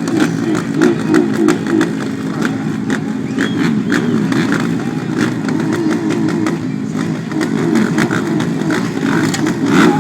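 Several motocross bikes' engines running and revving at once, their pitches overlapping and rising and falling.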